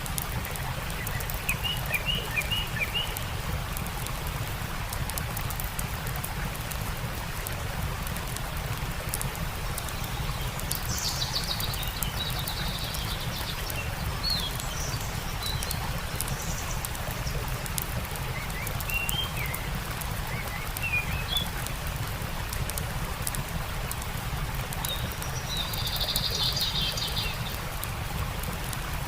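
Birds chirping in short phrases over the steady rush of a stream, with scattered small crackles from a campfire.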